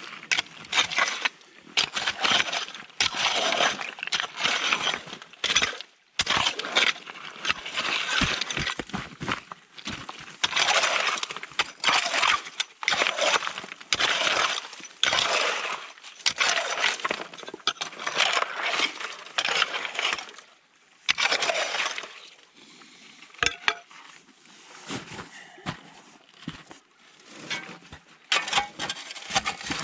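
Shovel digging into river gravel: a run of irregular scrapes, each half a second to a second long, with stones clinking and rattling. They come less often and more quietly for a few seconds past the middle.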